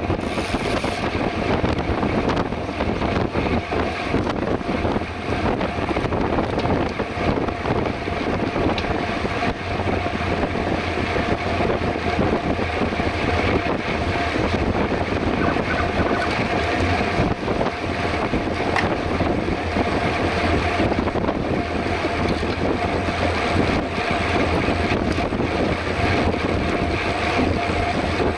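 Steady wind rushing over the microphone of a camera on a bicycle riding at speed on the road, mixed with the rolling noise of the ride.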